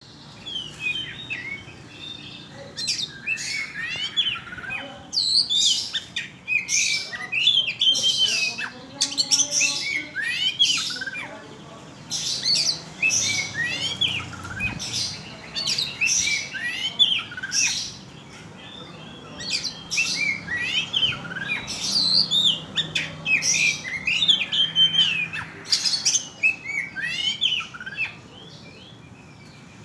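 Oriental magpie-robin singing a rapid, varied song of whistles and chirps in long phrases, broken by a few short pauses.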